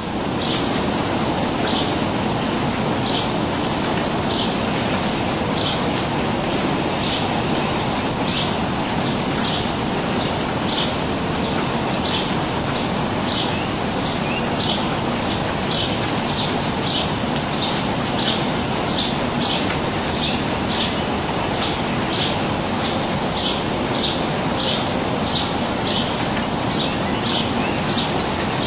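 A bird repeating a single short, high chirp over and over, every second or so at first and more quickly in the second half, over a steady low rushing background noise.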